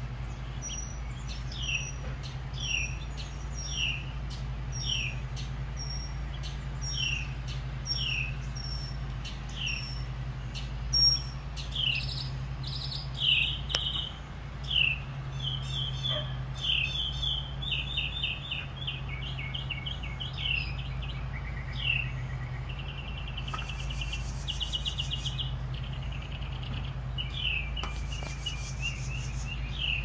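Songbirds calling. A short falling chirp repeats about once a second, then from about twelve seconds in come faster trilled and chattering notes. A steady low hum runs underneath.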